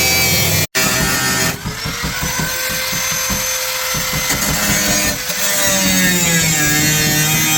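Power tool running steadily with a whining pitch that drifts slowly under load.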